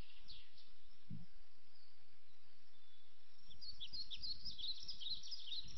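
Small birds chirping over a steady background hiss, the chirps coming thick and fast from about three and a half seconds in.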